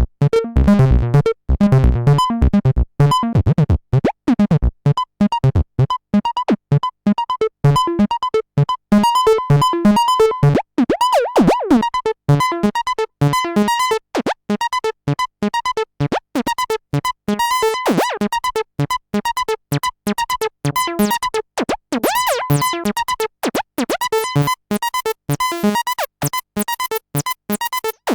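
Behringer TD-3-MO acid bass synthesizer playing a fast sequenced pattern of short staccato notes, with resonant filter squelches gliding through a few of them.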